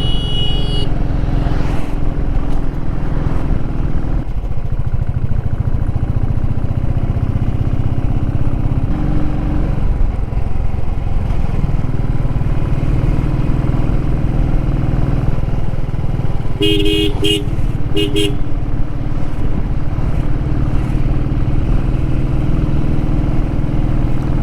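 Motorcycle engine running steadily while climbing a steep hill road. About two-thirds of the way through, a horn sounds three short times in quick succession.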